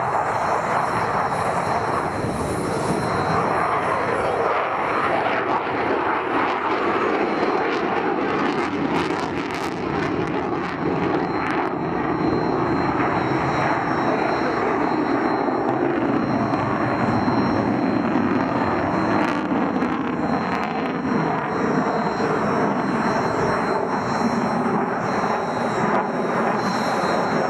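Jet aircraft engine noise, loud and steady, its pitch sliding slowly down over several seconds about halfway through.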